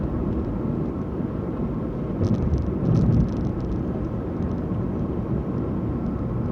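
Car driving on a road, heard from inside the cabin: a steady low rumble of engine and tyres, louder for about a second a little over two seconds in.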